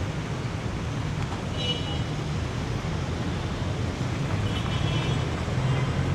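City street traffic: a steady rumble of vehicle engines passing, with a few brief high-pitched sounds over it.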